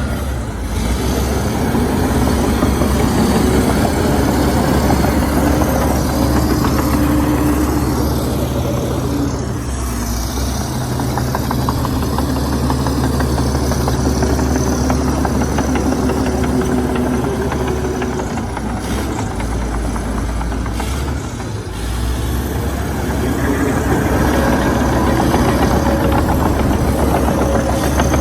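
Heavy diesel engine of earthmoving machinery running under changing load, its pitch and level swelling and easing, with two brief dips, about ten seconds in and a little past twenty seconds.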